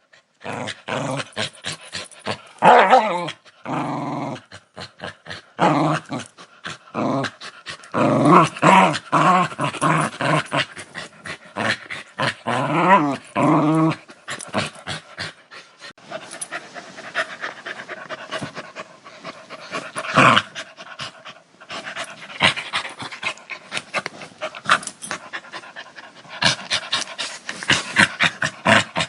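A dog growling in a run of loud pulses for roughly the first half, then quieter, rapid breathy strokes like panting, quickening near the end.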